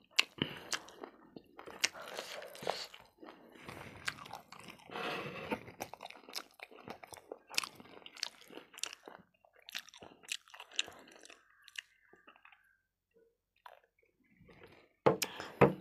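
Close-miked chewing and crunching of a mouthful of food, with wet crackling mouth sounds. It goes quiet about three-quarters of the way through, then a few sharp knocks near the end.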